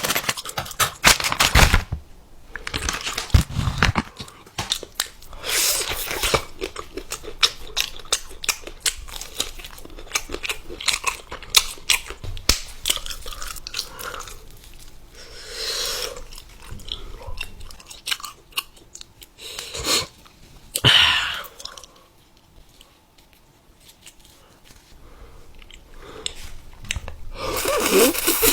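Close-up crunchy chewing and biting, with irregular crackling bites and clicks. A quiet pause comes about three quarters of the way through, then louder crunching near the end.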